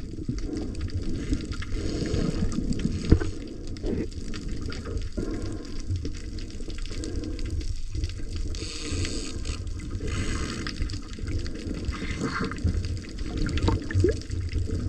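Sea water sloshing and splashing, with a steady low rumble and a few sharp knocks; a brighter hissing spell comes about two-thirds of the way through.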